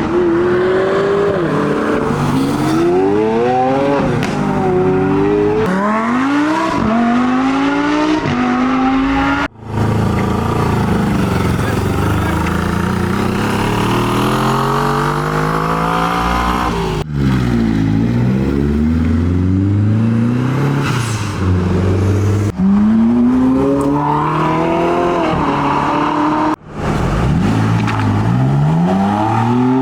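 Performance car engines revving hard and accelerating away, one car after another. The pitch climbs and drops with each gear change and blip of the throttle, and the sound switches abruptly between cars several times.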